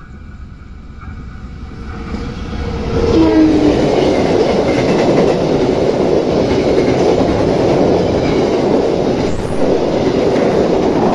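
Diesel-hauled passenger train passing close by: the locomotive's noise grows over the first three seconds, then the coaches' wheels run steadily and clatter over the rails.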